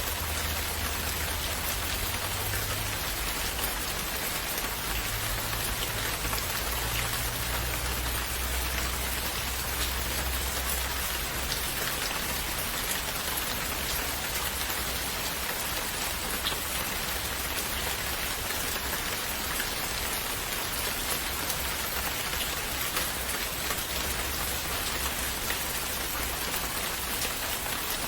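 Steady rain falling on a surface, a dense even hiss with scattered tiny drop ticks and a faint low rumble in the first half.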